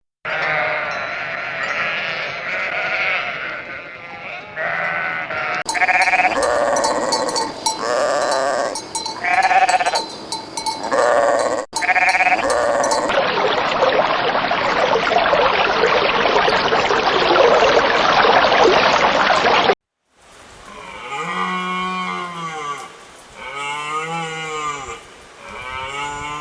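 Farm animals calling in a string of separate clips cut together, with sheep-like bleating among them. The sound changes abruptly several times: a dense stretch of many overlapping calls cuts off sharply about two-thirds of the way in, followed by a few separate rising-and-falling calls.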